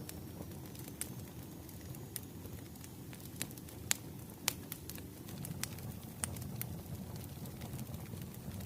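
Wood fire crackling: scattered sharp pops and snaps, a few louder ones about four seconds in, over a low steady rumble of burning logs.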